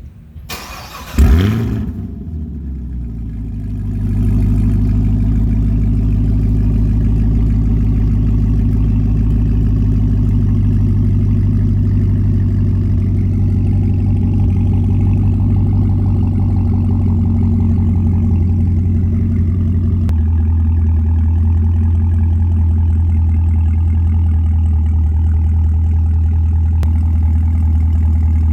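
2018 Camaro ZL1's supercharged 6.2-litre LT4 V8 through an aFe cat-back exhaust, cranking and firing with a sharp flare about a second in, then settling into a steady idle. The idle grows louder about four seconds in and steps down to a lower pitch about twenty seconds in.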